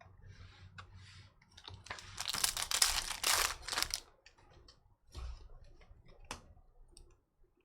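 Foil wrapper of a trading-card pack being torn open and crinkled: a noisy rustle of about two seconds, among scattered small clicks from cards being handled.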